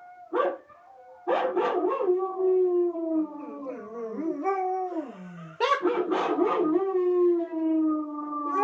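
White German Shepherd howling: a short yelp, then two long drawn-out howls, each opening with a few sharp yelps. The first wavers and slides down to a low note; the second starts about halfway in and holds a slowly falling tone.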